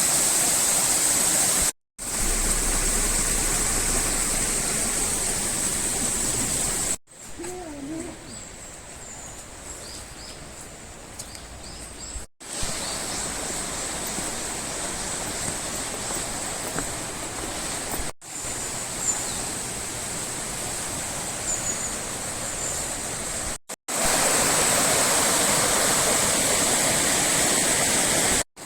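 Steady rush of the Daishōji River flowing through the Kakusenkei gorge. The sound comes in short clips that cut in and out abruptly, some louder and some quieter. In the quietest stretch a few faint high chirps can be heard.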